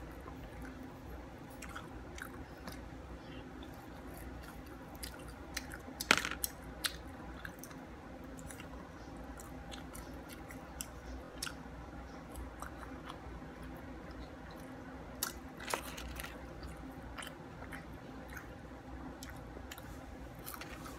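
Close-mouthed chewing and biting of chicken nuggets, with small scattered clicks and two short runs of sharper, louder clicks about six seconds in and again around sixteen seconds, over a faint steady hum.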